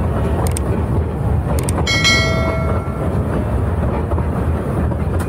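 Severn Lamb ride train running along its track: a steady low rumble with a few light clicks, and a short ringing tone about two seconds in that fades within a second.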